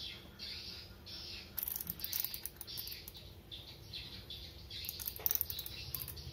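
Small birds chirping over and over, short falling calls two or three a second, with louder bursts of crackling or rustling about a second and a half in and again near the end.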